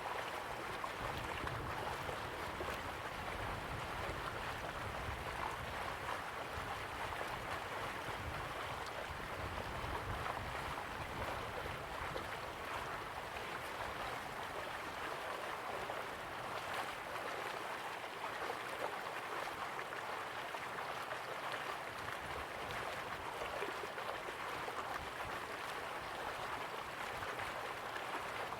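Slow-flowing river water, a steady even rushing and burbling.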